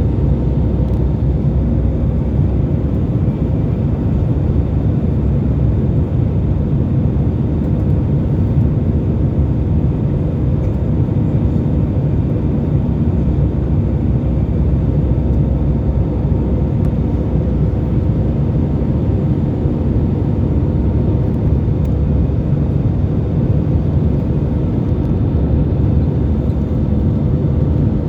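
Airbus A320 in flight, heard from the cabin: a steady, loud rumble of engines and airflow, with a few faint steady tones above it and no change in pitch or level.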